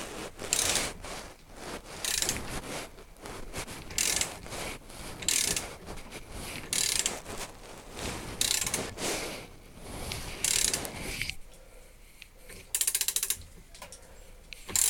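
Hand-tool metalwork on a Lister pump's cam assembly to get its bearing off: short rasping metal strokes about every second and a half, then a quick run of ratchet-like clicks near the end.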